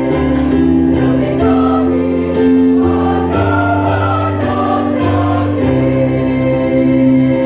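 High-school choir singing in several parts, holding sustained chords that move to a new chord every second or so.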